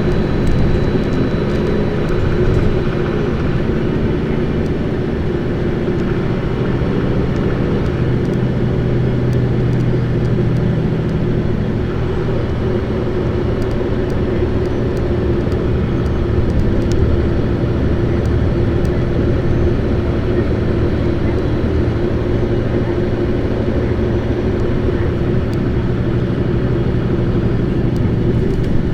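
Isuzu Erga PKG-LV234Q2 city bus's diesel engine running steadily under way, a continuous drone with slight shifts in engine pitch but no stops or sudden events.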